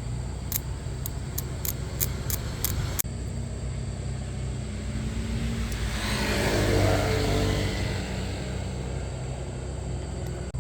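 A motor-vehicle engine runs with a steady low hum. A quick series of about seven sharp clicks comes in the first three seconds. Around the middle, a swell of vehicle noise rises to its loudest and then fades over two to three seconds.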